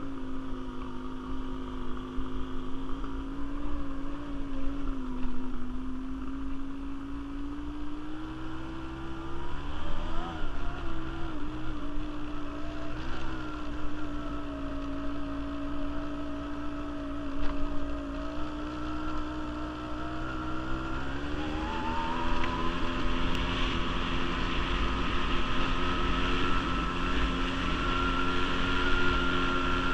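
Quad bike (ATV) engine running under way, its pitch wavering with the throttle; about two-thirds of the way in it revs up and holds at higher revs. Wind buffets the microphone.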